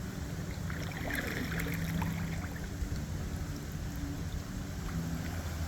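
Water noise from a kayak on a river: paddle water trickling and splashing, over a steady low rumble.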